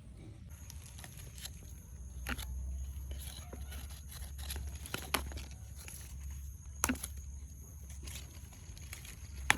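Scattered sharp snaps and crackles, as of plant stems and leaves being broken and handled during harvesting, over a low rumble and a steady high-pitched buzz.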